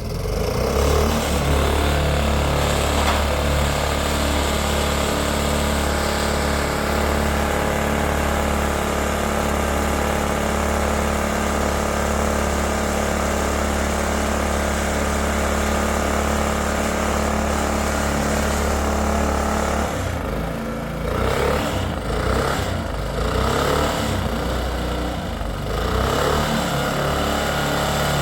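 A motor-driven machine switches on and runs loud and steady with a low hum. From about twenty seconds in its sound turns uneven and fluctuating.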